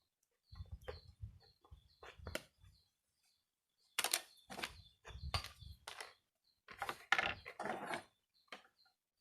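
Irregular knocks, scrapes and rustles of hand work on plastic and scrap parts, coming in clusters with short pauses between. A small bird chirps repeatedly in the background.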